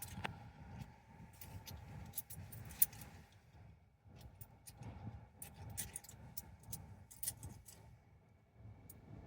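A handful of quarters clinking together as they are counted in the hand: irregular light metallic clinks, over a low steady rumble.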